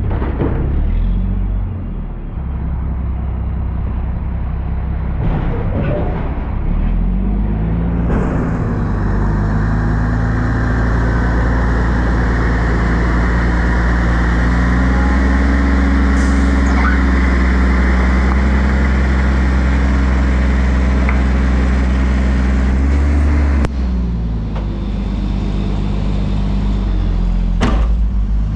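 Front-loader garbage truck's diesel engine revving up to drive the hydraulics about eight seconds in. It holds at high revs with a rushing hiss for about fifteen seconds, then drops back to idle. A couple of sharp clanks come near the end.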